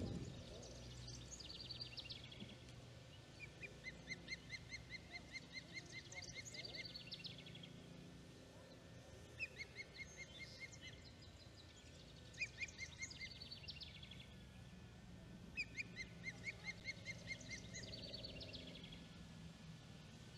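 Osprey calling: series of rapid, short whistled chirps, several a second, repeated every few seconds, over a faint low hum.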